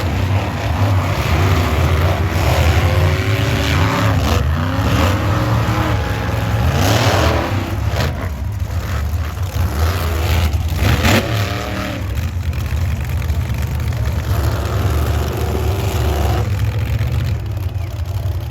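Monster truck engine revving hard again and again, its pitch climbing and dropping with each blip of the throttle over a deep, steady rumble.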